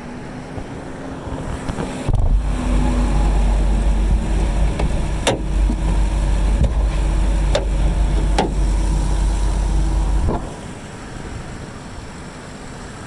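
Ford F250 truck's engine running, with a heavy low rumble that comes in about two seconds in and cuts off about ten seconds in. A few sharp clicks sound during it.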